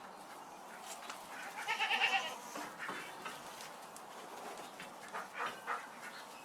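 An animal calling: one loud, wavering call about two seconds in, then a few shorter, fainter sounds near the end.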